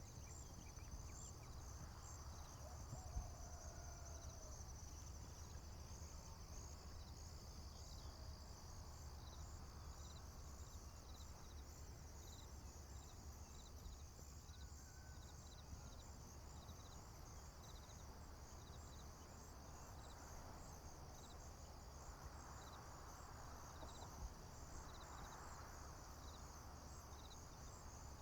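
Faint chorus of crickets and other field insects chirping steadily at a high pitch, in quick, evenly repeated pulses. A low steady rumble runs underneath.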